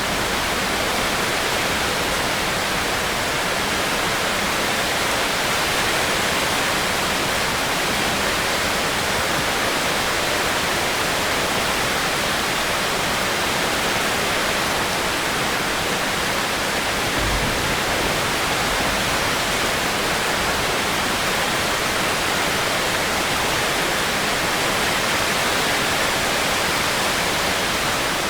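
Steady heavy rain falling, an even continuous hiss.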